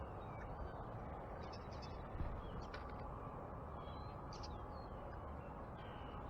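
Backyard birds calling: short scattered chirps and call notes over a steady hiss of outdoor background noise, with a brief low bump about two seconds in.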